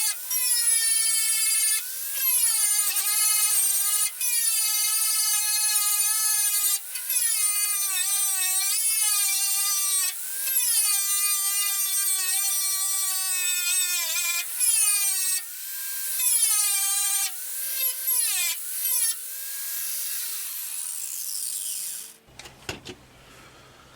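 Angle grinder with a twisted-wire wheel stripping surface rust back to bare metal on a steel car boot lid: a loud high whine whose pitch drops each time the wheel is pressed into the metal and climbs again as it is eased off. It stops about two seconds before the end.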